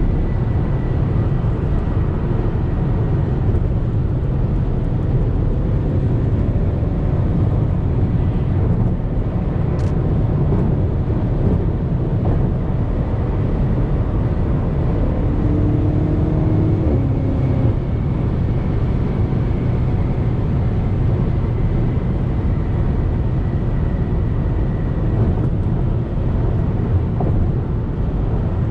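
BMW M5 Competition's twin-turbo V8 cruising with a steady, deep drone, mixed with tyre and road noise. The engine note dips in pitch briefly a little past halfway.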